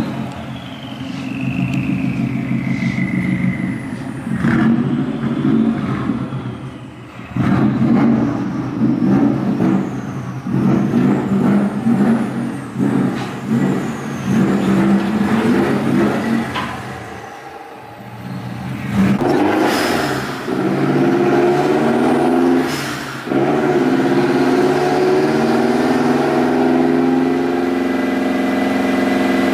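Car engine revving on a chassis dyno during a tune: uneven rises and drops in revs through the first two-thirds, then, after a brief lull about 18 seconds in, a long sustained run with the revs slowly climbing.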